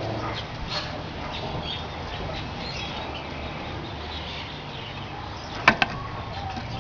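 Cockatiels giving soft, scattered chirps and squeaks. A sharp knock comes about five and a half seconds in, with a smaller one right after.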